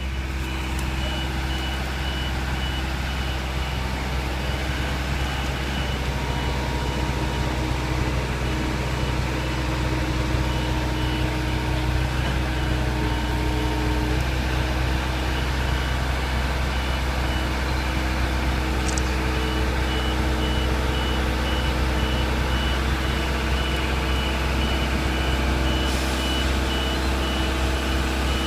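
Tow truck engine running steadily, with a high-pitched warning beeper sounding in an even, repeating pattern over it.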